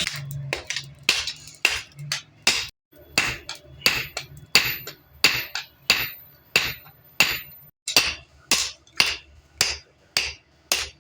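Blacksmith's hammer striking metal on an anvil in a steady rhythm, about three blows a second, with two brief pauses.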